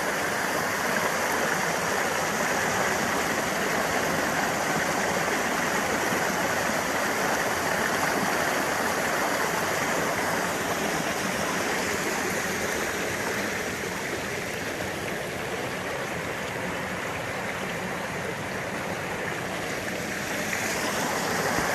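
Small mountain-stream waterfall splashing and rushing steadily over rocks, growing a little softer about halfway through.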